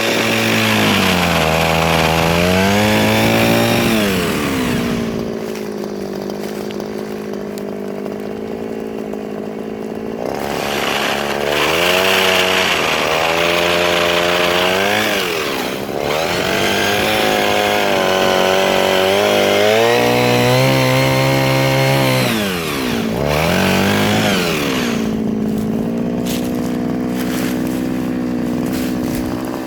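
Mini chainsaw cutting soft wood in several passes. Its motor note sags and wavers under load while the chain cuts with a rasping hiss. Between cuts it runs unloaded at a steady pitch, from about 4 to 10 seconds in and again in the last few seconds.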